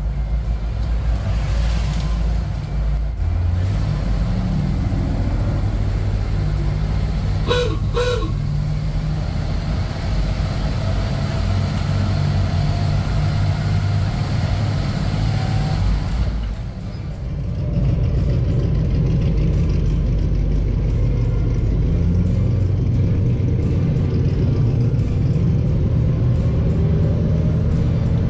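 Engine of a 1948 Ford F5 bus running as it drives off, with music playing over it.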